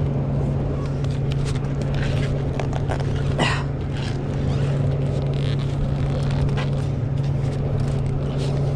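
Diesel truck engine idling steadily, with scattered light clicks and knocks of work around the truck.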